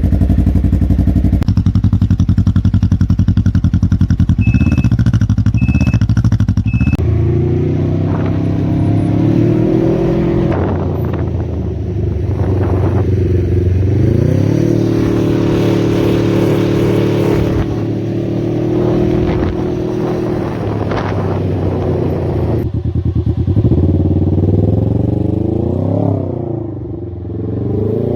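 Can-Am Ryker 600's Rotax two-cylinder engine and exhaust idling with a steady pulse, then pulling away as the revs climb, hold high for several seconds and fall, with a few quick blips of the throttle near the end. Three short high beeps sound about five seconds in.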